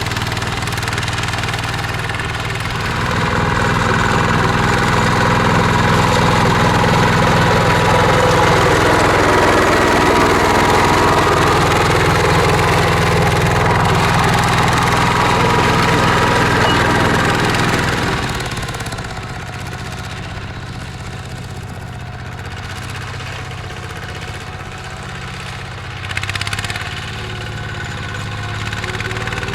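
Mini tractor's engine running steadily as it plows. It grows louder about three seconds in, drops back at around eighteen seconds, and has a short surge near the end.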